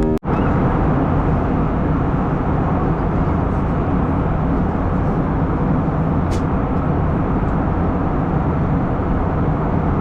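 Steady jet engine and airflow noise inside the cabin of an Airbus A321 climbing after takeoff, with a low hum running through it. A faint click comes about six seconds in.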